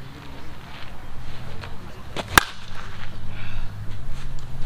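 Dudley Lightning Legend senior slow-pitch softball bat striking a pitched softball once, a single sharp crack about two seconds in.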